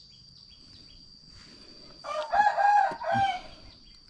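A rooster crowing once, about two seconds in: a long drawn-out note followed by a short one.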